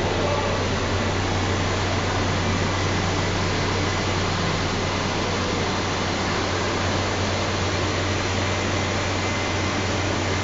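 Biomass wood-dust burner running with its blower fan: a steady rushing noise over a constant low hum.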